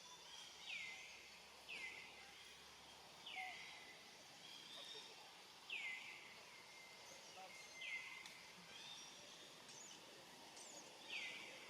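A bird calling repeatedly outdoors, about six short downward-sweeping notes spaced a second or two apart, faint against a quiet background hiss.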